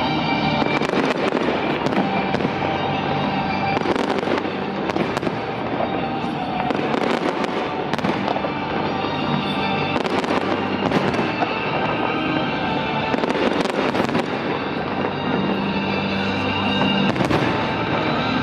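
Fireworks going off in quick succession, many bangs and crackles throughout, with music playing alongside.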